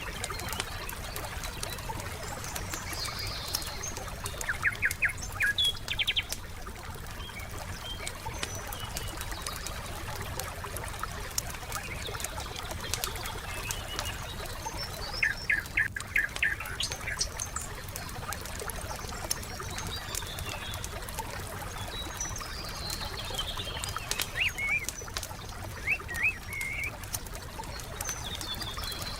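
Wood fire crackling with frequent small pops over a steady low rumble, while forest birds call. There are quick runs of short repeated notes about five, sixteen and twenty-six seconds in, and higher chirps between them.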